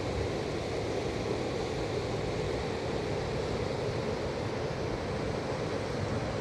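Steady rush of a fast-flowing mountain river, an even roar that does not change.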